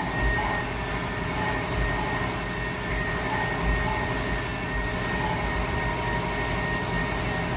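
Fadal VMC 4020 CNC vertical machining center running a machining cycle: a steady drone, with a short high-pitched burst three times, about two seconds apart.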